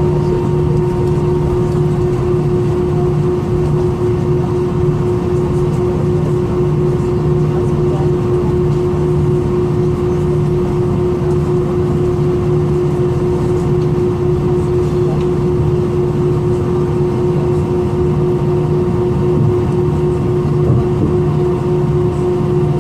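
Steady cabin noise inside an Airbus A320 with its engines running: an even rush with a steady hum and a low, pulsing drone underneath.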